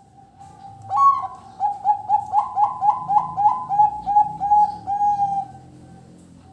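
Zebra dove (perkutut) singing: a rapid series of short, soft cooing notes starting about a second in, about three a second, slowing into a few longer notes before it stops.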